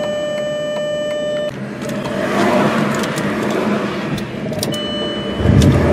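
A car's warning chime sounding one steady tone that cuts off about a second and a half in, followed by the rushing noise of passing road traffic, which swells loudest near the end.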